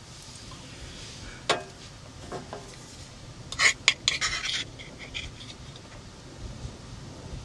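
A few light clinks and knocks, then a short burst of clatter about three and a half seconds in, like objects or utensils being handled, over a steady low background noise.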